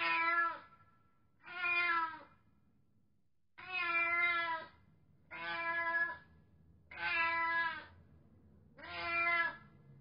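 Domestic cat meowing six times, each meow a little under a second long, about one every one and a half to two seconds.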